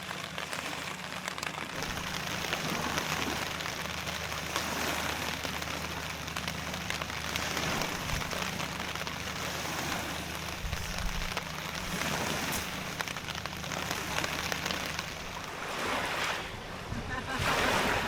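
Heavy rain falling steadily on a tarp shelter, a constant patter that swells briefly near the end.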